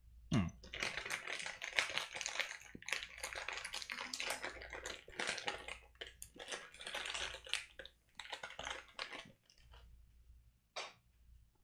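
Close-up crunching and chewing of a gummy candy with a crisp, icy sugar texture: a dense run of crackly crunches that stops about nine seconds in, followed by a single click near the end.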